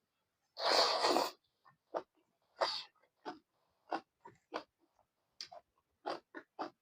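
Close-miked mouth sounds of eating pork fry with rice: a loud breathy rush lasting under a second near the start, then wet chewing clicks, about three a second.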